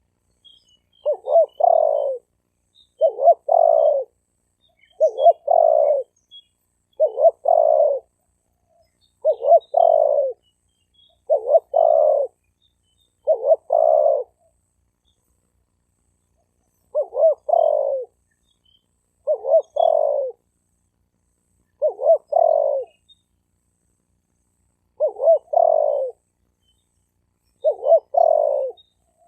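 Male spotted dove cooing: a phrase about a second long, a couple of short quick notes and then a longer coo, repeated about every two seconds. There is a short pause about midway through. This is the male's cooing call, the kind used to lure wild doves.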